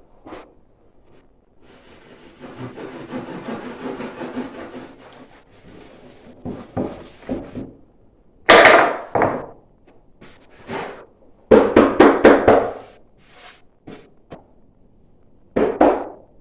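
Ceramic fiber insulation board being cut and shaped by hand: a few seconds of steady rasping, then loud scraping strokes, a quick run of several strokes in the middle, and one more near the end.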